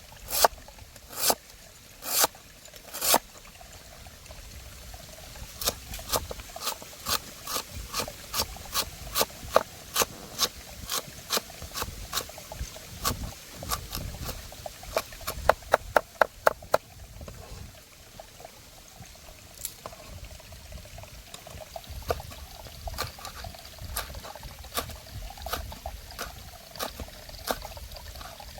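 A series of sharp knocks, roughly two a second, with a quick run of faster knocks about halfway through, over steadily trickling water.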